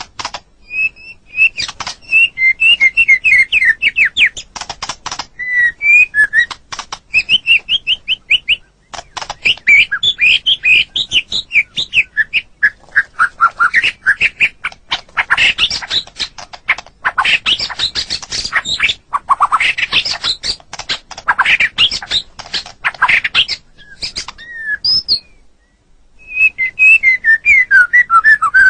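White-rumped shama (murai batu) singing a fast, varied song of whistled phrases mixed with chattering, clicking notes, pausing for about a second near the end before starting again.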